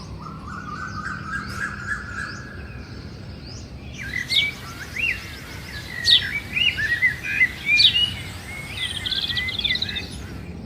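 Birds calling outdoors: a run of sharp chirps and short whistles with quick upward sweeps, ending in a fast trill. Before them, a steady high tone slowly rises in pitch for the first few seconds.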